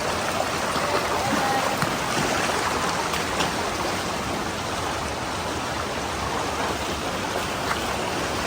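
Mountain stream rushing over boulders in a gorge: a steady, even rush of flowing water.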